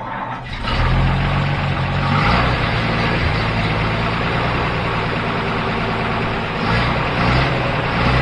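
Ford 226 cubic-inch inline-six truck engine running steadily, coming up to full level about half a second in.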